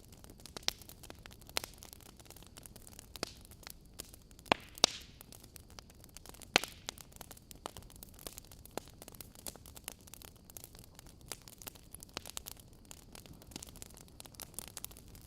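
Wood fire burning in a fireplace: irregular sharp crackles and pops from the burning logs over a low steady hiss, with a few louder pops about halfway through.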